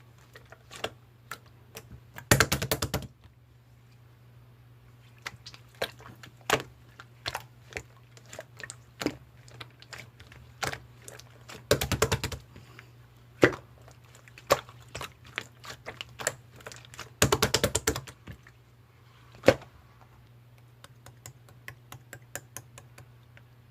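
Slime being pressed and squeezed by hand: scattered sharp clicking pops of trapped air, with three dense runs of rapid crackling pops, about two seconds in, around the middle and about three-quarters of the way through.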